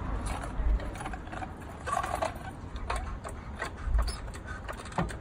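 Irregular metallic clicks and clinks of hand tools being worked on a car.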